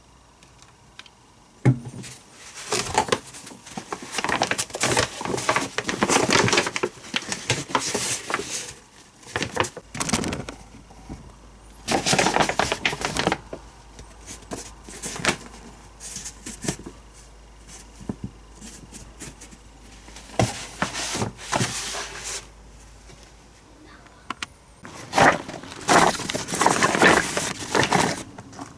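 Firewood being handled: wooden pieces knocking and clattering together, with rustling, in irregular bursts separated by short pauses.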